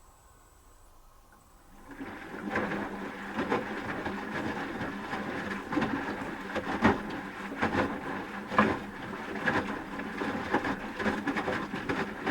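Asko W6098X washing machine in its wash phase: the drum rests, then starts turning about two seconds in, tumbling wet laundry with irregular thuds and water sloshing.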